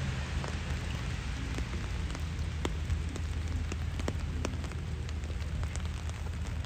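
Steady rain falling, with many separate drops ticking sharply, over a low rumble.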